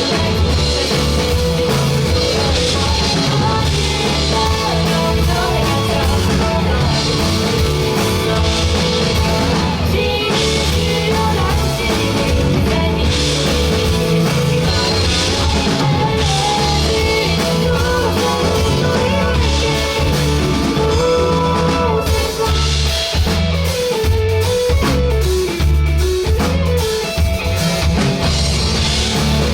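Live rock band playing a song: drum kit and bass keeping a steady beat under guitar, with singing at times.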